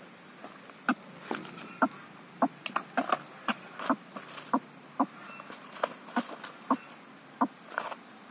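A string of short, sharp clicks at uneven spacing, about two or three a second, over a faint steady hiss.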